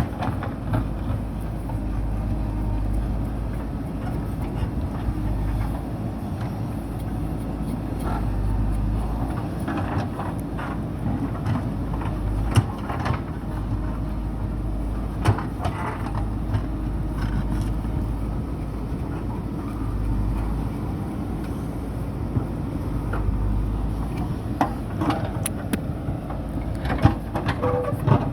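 JCB backhoe loader's diesel engine running under working load, its rumble swelling and easing, with scattered sharp knocks and clanks from the machine at work.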